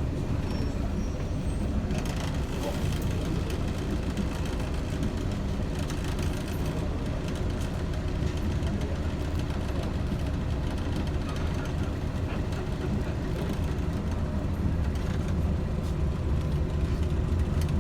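Interior of a Scania L113CRL bus underway: its engine running and a steady low rumble from the road and the body.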